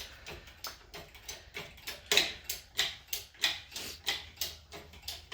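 A ratcheting mechanism clicking in a steady rhythm, about three clicks a second, as the engine is being raised out of the car.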